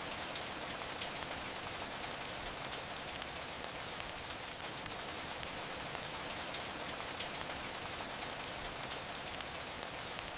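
Steady rain falling, with scattered small sharp crackles from a wood fire in a fireplace.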